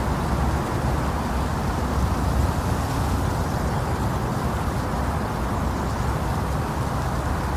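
Steady, low rumbling hiss of womb-sound noise for putting a baby to sleep, with no pulses or changes.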